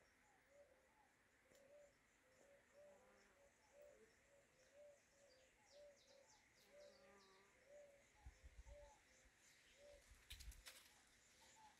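Faint, distant bird calls: a steady series of short low hooting notes, about two a second, with quick high chirps from another bird in the middle. Near the end come a few soft low bumps and clicks.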